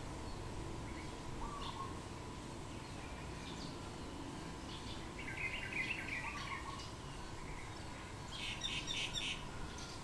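Wild birds calling, not the preening dove: a short low whistled call repeats every two to three seconds. Midway there is a brief jumble of chirps, and near the end a quick run of about five sharp chirps.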